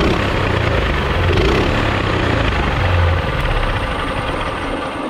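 Loud, steady rumble and rushing noise of a mini bike being ridden, dominated by wind buffeting the microphone.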